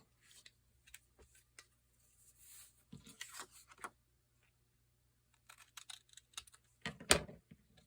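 Paper being handled for a craft tag: faint scattered clicks and short rustles, with one louder sharp click about seven seconds in.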